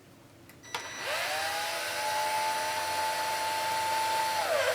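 A small electric screwdriver's motor spins up about a second in and runs with a steady whine as it backs out a screw. Near the end it slows, gives one brief burst, then stops.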